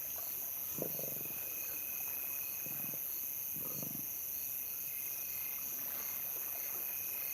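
Lions growling low in three short bouts while feeding at a buffalo kill, over a steady chirring of night insects.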